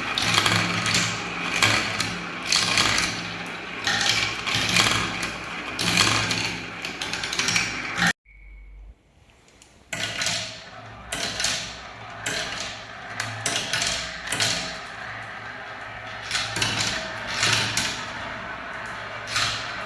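Marbles rolling and clattering down a spiral-ramp marble run, a dense rattle of small clicks. It cuts off suddenly about eight seconds in and starts again two seconds later.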